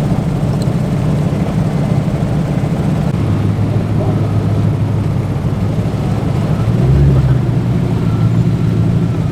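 Car engines idling, a steady low rumble whose note shifts a few times, around three and seven seconds in.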